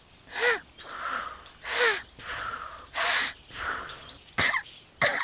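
A small cartoon character's voice huffing and puffing into a balloon without managing to blow it up: three big strained blows about a second apart with hissing breath between them, then two short sharp puffs near the end.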